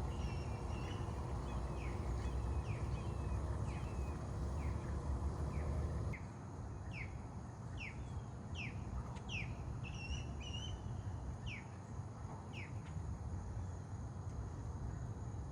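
A bird calling: a series of short, sharp, falling chirps about once a second, with a couple of brief warbled notes, over a steady low background rumble.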